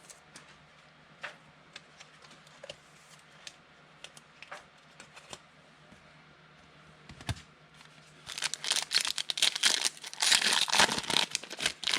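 A few faint clicks of trading cards being handled. Then, about eight seconds in, a football card pack's wrapper is torn open and crinkled for about four seconds, in two loud stretches.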